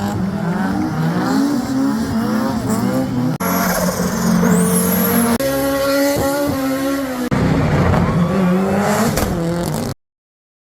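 Historic rally car engines revving hard, their pitch rising and falling with the throttle. The sound comes in four short segments that change abruptly, and it stops dead about ten seconds in.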